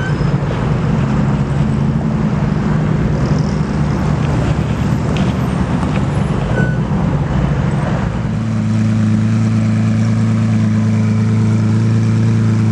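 Car engine running, with road noise; a little past halfway it settles into a steady, even note.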